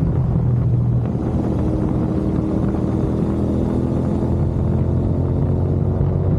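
Royal Enfield Continental GT 650's 648 cc parallel-twin engine running through a Gurusewak aftermarket exhaust: a steady, deep exhaust note whose pitch shifts only slightly.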